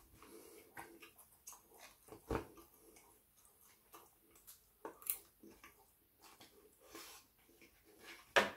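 Close-up chewing and mouth sounds of a person eating doner kebab meat, with scattered light clicks and taps of a fork against a foam takeaway box.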